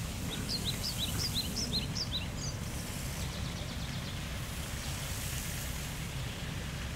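A bird sings a quick run of short, rising chirps, about three a second, that stops about two and a half seconds in, over a steady low rumble.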